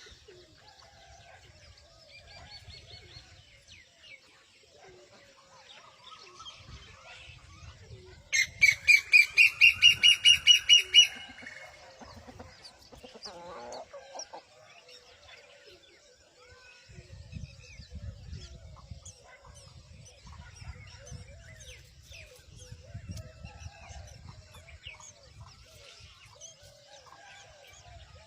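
Young bird calling loudly in a quick run of about a dozen repeated chirps, some four a second, about a third of the way in, over fainter scattered chirping of other birds.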